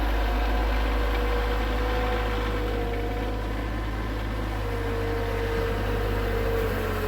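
Engine running steadily, a low hum with one tone whose pitch sags slightly, then rises again near the end.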